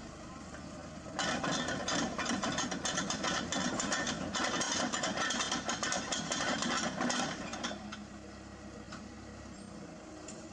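Heavy diesel engine idling. From about a second in, a loud dense mechanical clatter of rapid clicks runs for about six seconds, then dies away, leaving the idle.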